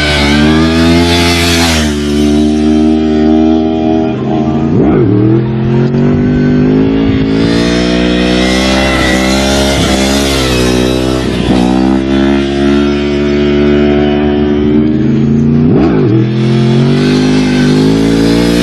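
Sport motorcycle engine revving through its exhaust, its pitch rising and falling again and again, with a few quick sharp blips.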